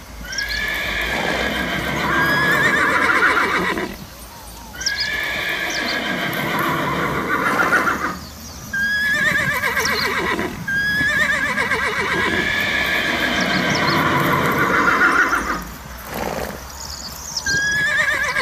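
Horses neighing: about five long whinnies one after another, each a few seconds long with a wavering pitch, separated by short pauses.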